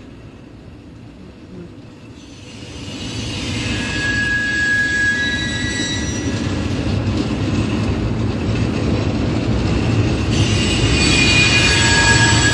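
Train rolling along the track, its rumble building up about two seconds in. The wheels squeal on the rails in high, steady tones, twice.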